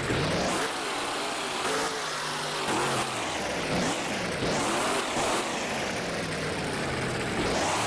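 Monster truck engine revving hard, its pitch climbing and dropping again several times, with a steady wash of noise underneath.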